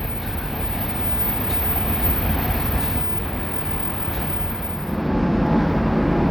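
Freight train wagons rolling past, a steady rumble and clatter of wheels on the rails. It gets louder about five seconds in.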